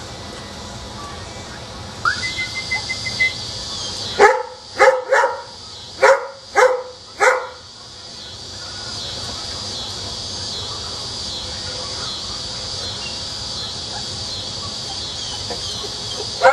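A dog barks five times in quick succession, a little over half a second apart, from about four seconds in. Just before the barks comes a short rapid high chatter, and a steady high chirring runs underneath.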